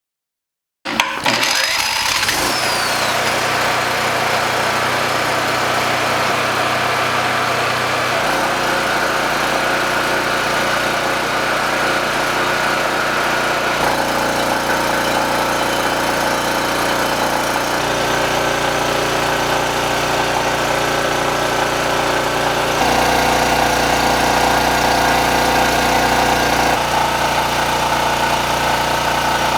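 Harbor Freight 4,000-watt portable generator's engine running on gasoline. It starts abruptly about a second in and then runs steadily and loudly. Its tone shifts suddenly several times.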